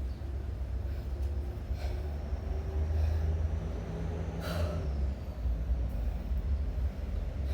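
Sharp, forceful exhalations from a kettlebell lifter working through a one-arm long-cycle set, a faint one about two seconds in and a stronger one about four and a half seconds in, over a steady low rumble.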